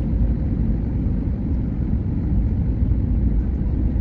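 Steady low rumble of a jet airliner during landing.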